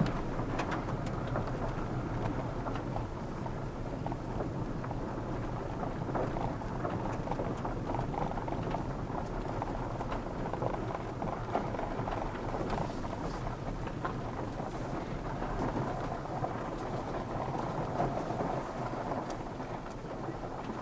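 Steady road and tyre noise of a car driving, even and unbroken, with a few faint ticks.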